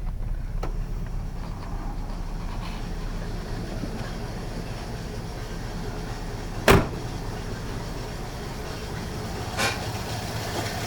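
1956 Oldsmobile Rocket 88's Rocket V8 idling steadily as it warms up, with the air cleaner removed. A single sharp knock sounds about two-thirds of the way through, and a smaller one near the end.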